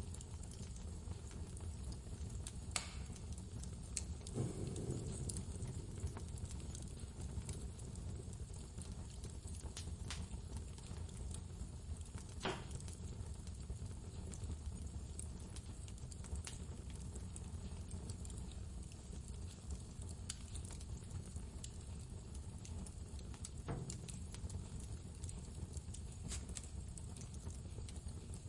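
Wood fire crackling, with occasional sharp pops a few seconds apart, over a steady low rumble of blizzard wind.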